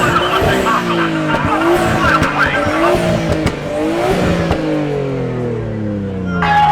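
Car engine revving hard while its tires squeal in a burnout, the revs rising and falling repeatedly. About four and a half seconds in, the engine winds down in a long falling pitch.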